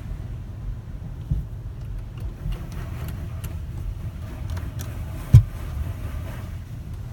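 Belanger car wash tunnel running: a steady low rumble with scattered knocks and clicks, and one loud thump about five seconds in.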